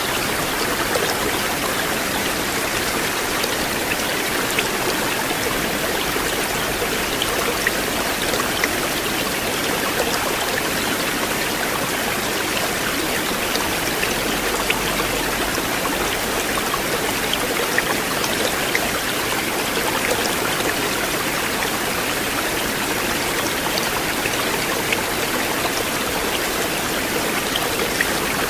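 River water flowing steadily, a continuous rushing wash with small droplet-like splashes scattered through it.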